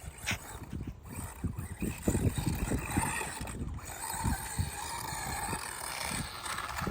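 Small 1/16-scale brushless RC truck driving over rough ground: a faint motor whine with many irregular knocks and bumps from the wheels and chassis.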